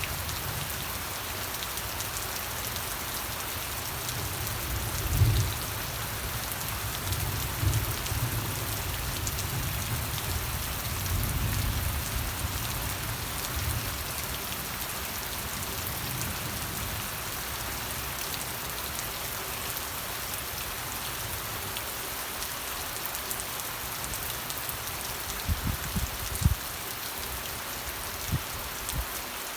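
Steady rain falling, an even hiss of many drops landing on a surface. Low dull thumps and rumbles come and go in the first half, and a few sharp low knocks sound near the end.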